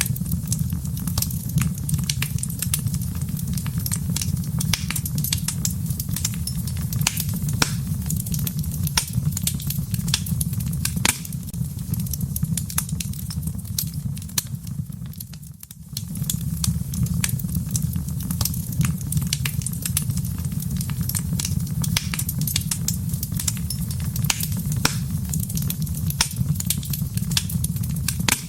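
Wood fire burning in a fireplace, crackling with dense, irregular sharp pops and snaps over a steady low rumble of the flames. The sound briefly fades about halfway through, then resumes.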